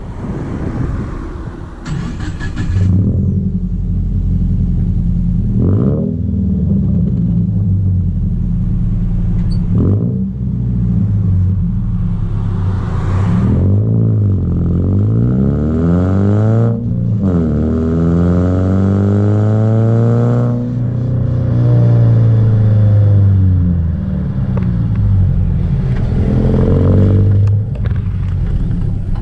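Subaru Impreza 1.5R's flat-four engine and aftermarket exhaust pulling through the gears on the road, the note climbing and then dropping back at each gear change, several times over.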